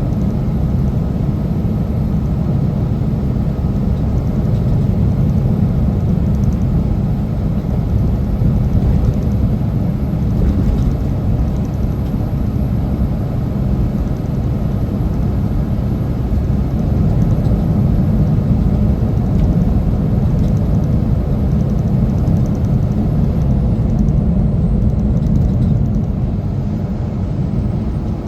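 Semi truck driving at a steady pace: a loud, even low rumble of engine and road noise.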